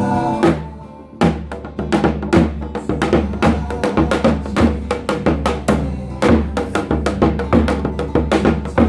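Janggu, the Korean hourglass drum, played in a quick traditional rhythm: crisp stick strokes mixed with deeper drum beats, starting about a second in after a held pitched note dies away.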